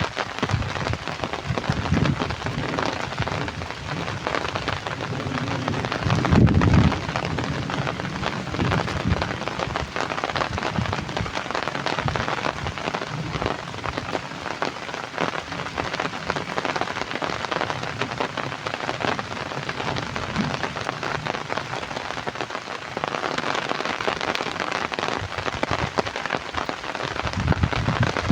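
Heavy rain falling steadily, a dense even hiss, with a deeper low rumble about six seconds in and again near the end.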